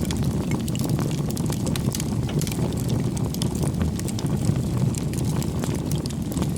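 Bonfire burning: a steady low rumble of flames with many small sharp crackles and pops from the burning wood.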